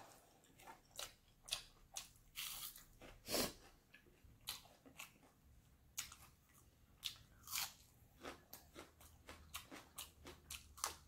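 Close-miked chewing of a crunchy mouthful, with sharp, irregular crunches; the loudest comes about a third of the way in, and the crunches come quicker near the end.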